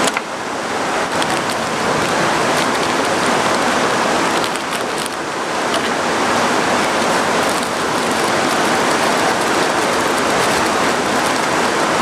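Heavy rain pouring steadily: a dense, even hiss with a few faint ticks in it.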